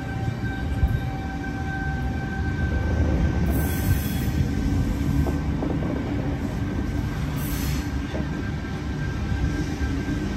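Double-deck electric suburban train running past along the platform. Its wheels rumble steadily on the rails under a thin steady whine, with two brief high hisses, one about a third of the way in and one about three quarters of the way in.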